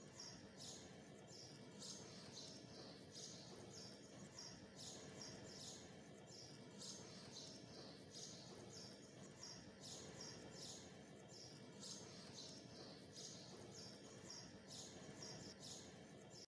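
Faint bird chirps in short clusters, repeating every second or so over a steady low hum.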